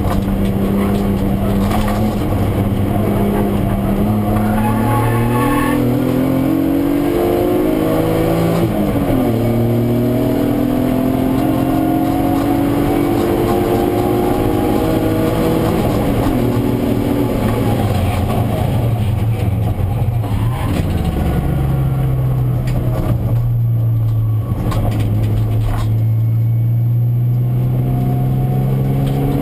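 BMW E36 323ti's 2.5-litre straight-six heard from inside the cabin, pulling hard with its pitch rising, dropping at a gear change about eight seconds in and climbing again. It then eases off with the pitch falling, and runs at low, steady revs near the end.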